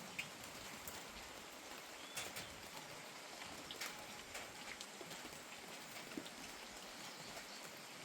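Soft, steady rain, with many individual drops tapping sharply on a surface close by.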